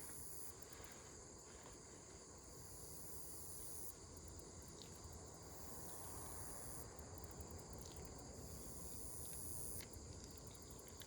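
Faint outdoor insect chorus: a high, steady chirring that swells and drops back every couple of seconds.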